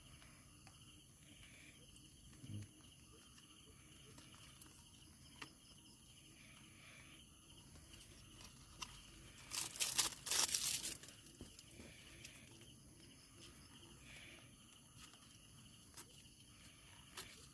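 A steady chorus of night insects, a thin high drone. About ten seconds in there is a brief burst of crinkling and tearing, likely a box or wrapper being torn to make an ashtray.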